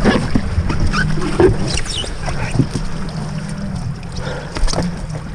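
A small boat moving along a river: a steady low hum runs under scattered knocks and water splashes against the hull.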